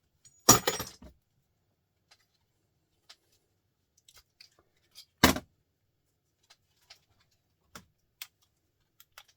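Loose metal scrap parts from a motor teardown clattering as they are dropped or tossed onto a pile, in a cluster of clanks about half a second in and a single sharp clank about five seconds in, with light clicks and taps of parts being handled in between.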